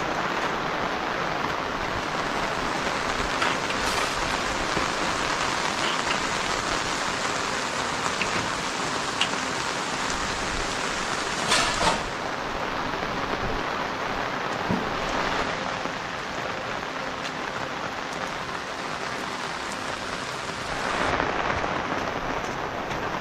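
Steady rain falling, an even hiss, with a few scattered sharp clicks and a louder knock about halfway through. The rain swells briefly near the end.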